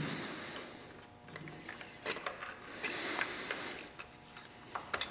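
Light metal clicks and scraping as the lower dogbone bolt is worked up and out through the motorcycle's rear suspension linkage. A few sharper clicks come about two seconds in and near the end.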